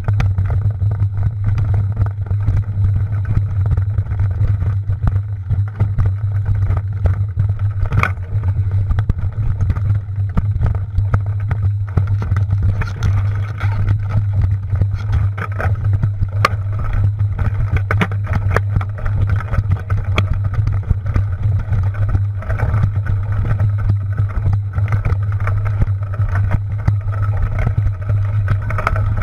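Steady low rumble with frequent rattling clicks and knocks, the sound of a mountain bike being ridden over rough trail as heard on a camera carried on the bike or rider.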